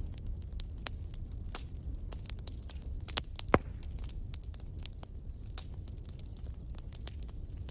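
Wood fire crackling, with frequent irregular small pops over a low steady rumble and one sharp, much louder pop about three and a half seconds in.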